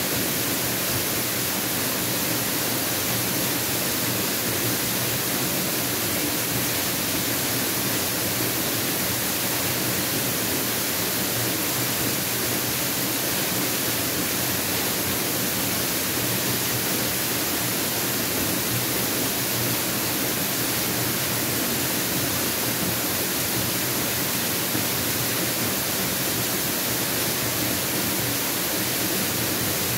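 Mountain waterfall: falling water making a steady, unbroken rush, strongest in its high hiss.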